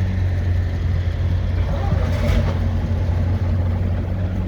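An engine idling with a steady low hum, and a short rustle or knock about two seconds in.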